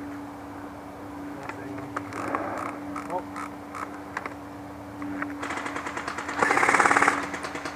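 Airsoft guns firing: scattered single shots at first, then rapid full-auto bursts from about five and a half seconds in, with the loudest, closest burst near the end.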